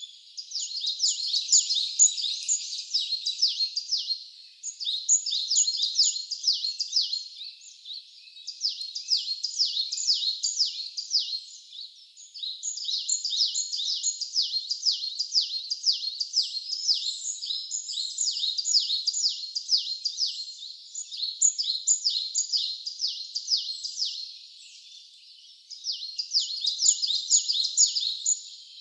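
Songbird singing in long, rapid, high-pitched trilled phrases of about three to four seconds each, one after another with short breaks.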